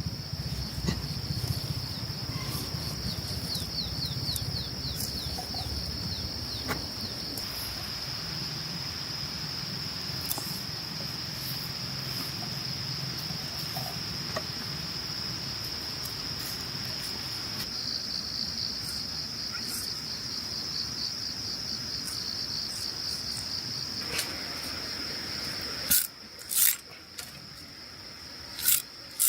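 Insects trilling in one steady, continuous high tone, with scattered small clicks and knocks; a few sharper knocks near the end.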